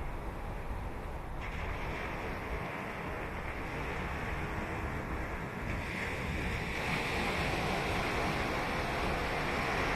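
Ocean surf washing onto the beach, a continuous rushing wash that swells louder in the second half as a wave breaks and runs in.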